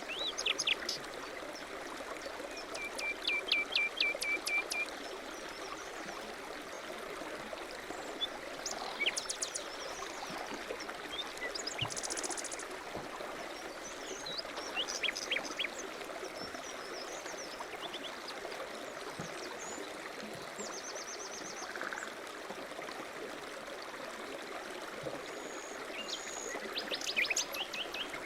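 Several songbirds singing and chirping: short call series, a few fast trills and single chirps, scattered throughout over a steady background hiss.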